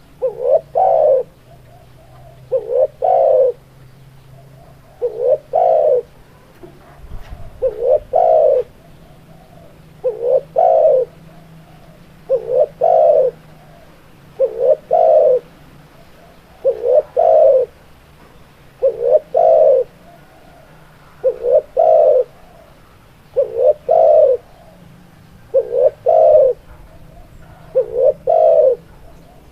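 Spotted dove (tekukur) cooing, a male's repeated song. It gives a short phrase of two or three low coo notes about every two seconds, in a steady rhythm, about thirteen phrases in all.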